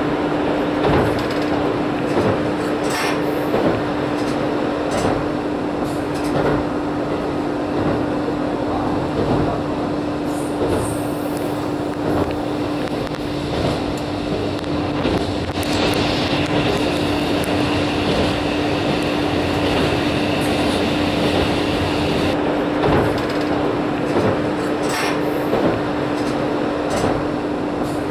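Inside a diesel railcar while it runs: steady engine and running noise with a constant low hum and occasional clacks of the wheels over rail joints. A higher whine rises over it for several seconds in the middle.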